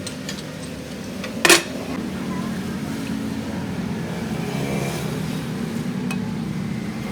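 A steady low engine hum, with one sharp knock about a second and a half in.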